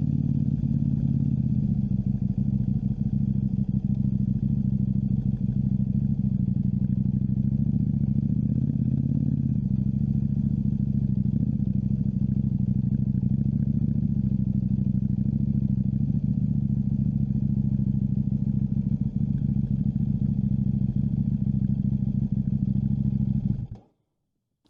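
KTM 790 Duke's parallel-twin engine running steadily at an even pitch, with a slight change in pitch about ten seconds in. The sound cuts off abruptly about a second before the end.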